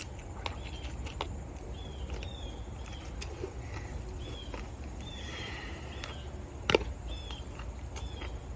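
Outdoor ambience: a steady low rumble with short high chirps repeating about twice a second, a few light clicks, and one sharp click near the end.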